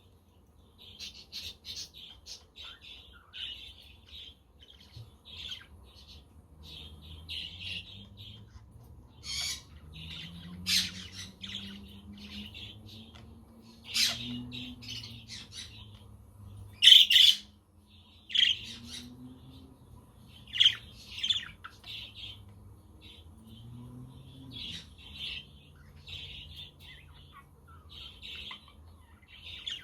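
A flock of budgerigars chirping and chattering continuously, with several louder, sharper squawks breaking through.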